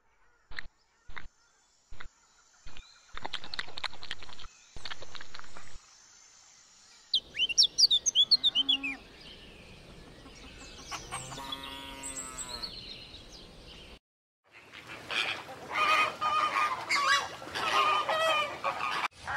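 A run of animal calls. About halfway through, a cow moos once, long and drawn out. In the last five seconds a flock of flamingos honks and calls all together. Earlier there are a few short clicks and a quick burst of high chirps.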